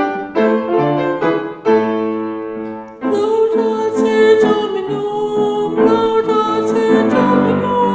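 Piano accompaniment for a Taizé chant, playing repeated broken chords. About three seconds in, a fuller sound enters with a held, wavering melody line over the piano, likely a voice singing the chant.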